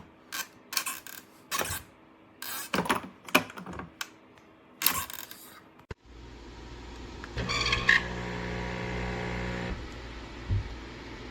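Sharp clicks and knocks of an espresso machine's parts and buttons being handled, then, after about six seconds, a steady mechanical hum that swells briefly around eight seconds.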